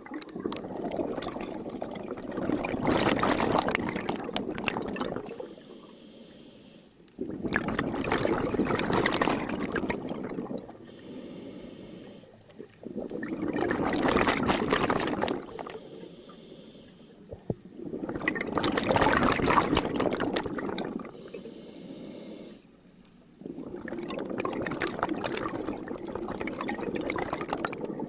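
Scuba diver breathing through a regulator underwater: five long bursts of exhaled bubbles about every five seconds, each separated by a short, quieter hiss of inhaling.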